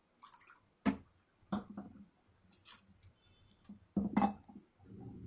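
A spoon knocking and scraping against a cooking pot while tomato paste is stirred into fried onion paste, with a few sharp clacks and soft wet squelches between them.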